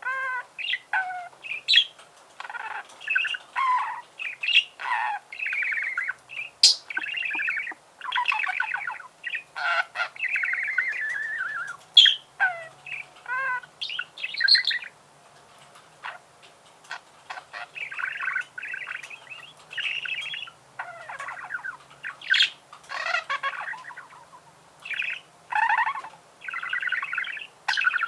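Budgerigar warbling: a fast, run-on chatter of chirps, clicks and squawky notes in short phrases, with a brief pause about halfway through.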